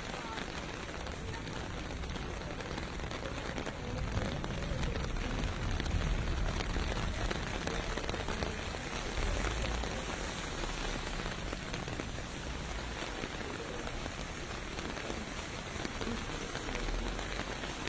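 Steady rain falling on pavement in a city street at night. Under it is a low rumble of distant traffic that swells a few seconds in and again near the end.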